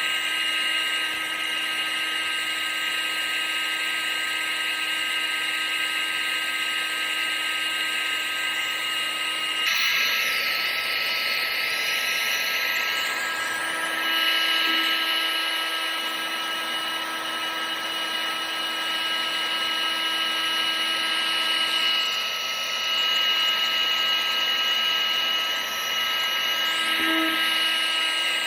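Electric motor and fan of a household appliance running steadily: a whine of several fixed tones over rushing air hiss, its tone shifting slightly a few times.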